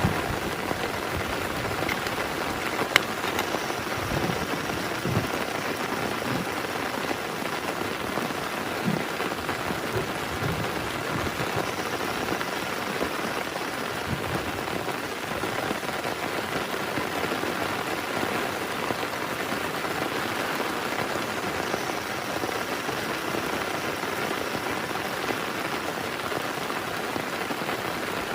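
Heavy rain falling steadily on a tent, with a sharp louder drop tick about three seconds in and a few low thuds between about four and fifteen seconds in.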